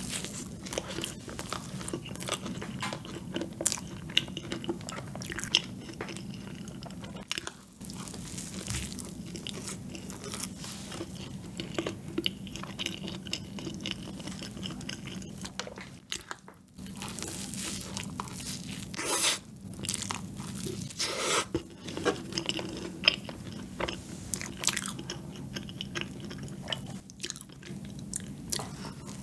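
Close-up eating of a peanut butter cream donut: biting and chewing with many small irregular clicks and crunches, over a steady low hum.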